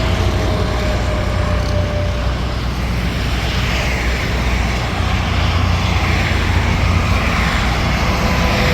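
Interstate highway traffic passing at speed: a loud, steady low rumble of truck engines and tyre noise, with faint whines that drop in pitch as vehicles go by near the start and again near the end.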